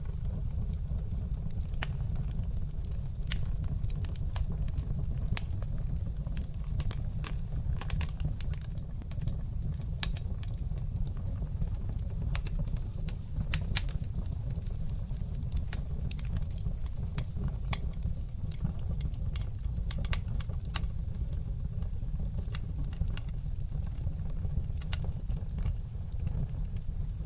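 Wood fire burning in a fireplace: irregular sharp crackles and pops over a steady low rumble of the flames, with a louder pop about fourteen seconds in.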